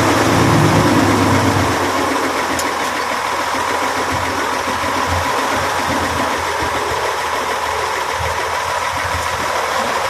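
Heavy diesel engine running steadily, a little louder for the first second or two and then settling at an even level.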